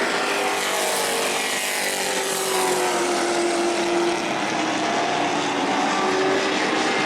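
Several Pro Truck race trucks running at speed around a short asphalt oval, their engines overlapping and their pitch rising and falling as they go through the turns and past.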